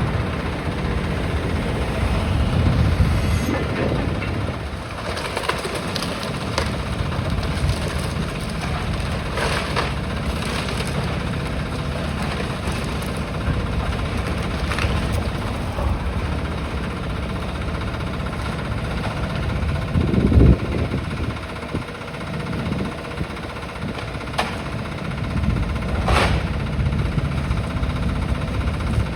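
Demolition excavator's diesel engine running steadily while it breaks up the building, with scattered crunches and knocks of masonry and debris and one heavy thud about two-thirds of the way in.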